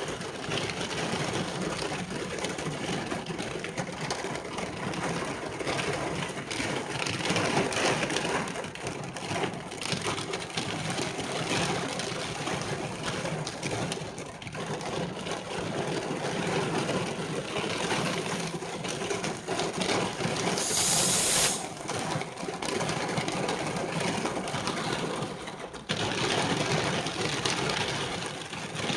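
Steady rushing noise of rain falling, rising and easing in strength, with a short sharp hiss about twenty-one seconds in.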